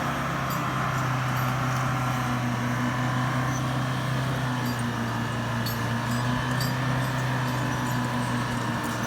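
Heavy vehicle engine running at a steady speed, a constant low hum with no revving.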